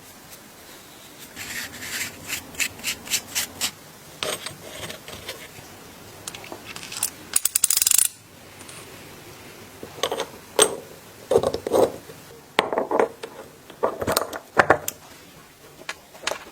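Hand-working noises on small hard parts: a run of short quick scrapes, a longer dense scrape about halfway through, then louder irregular knocks and rubs.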